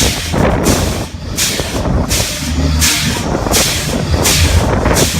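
Heavy wind rumble on the microphone at the seashore, with a hiss that surges and fades again about every half second.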